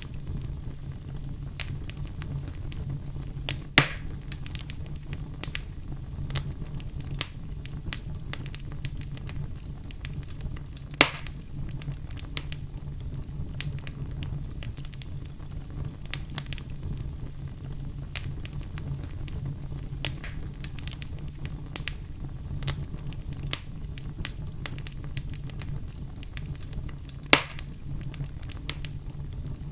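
Fireplace fire crackling steadily, with a stream of small snaps and three louder pops, about 4 seconds in, about 11 seconds in and near the end, over a low steady hum.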